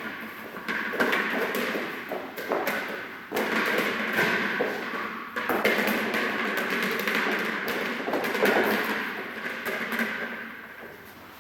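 A German Shepherd's paws thumping and tapping on a hard surface as it moves, in a rapid, uneven run of knocks.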